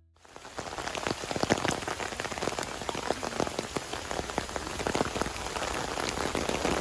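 Heavy rain falling in a storm, a steady downpour with many drops spattering close by.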